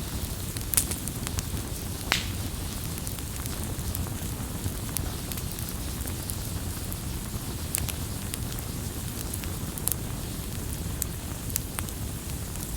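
Campfire burning with a steady low rumble and hiss, and sharp crackles and pops scattered through it, the loudest near the start.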